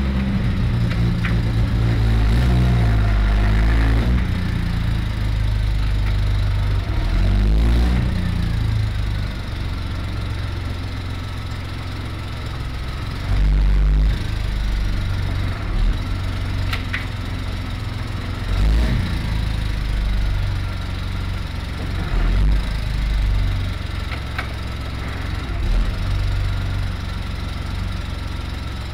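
Triumph TR6's straight-six engine running, louder under light throttle for the first several seconds, then idling with several short throttle blips.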